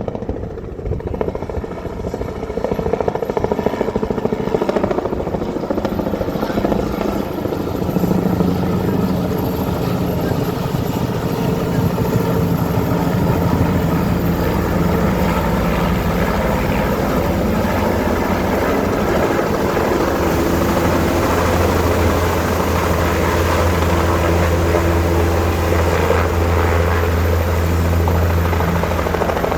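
Helicopter coming in to land: steady rotor and turbine noise growing louder, with a deep rotor drone strengthening over the last third.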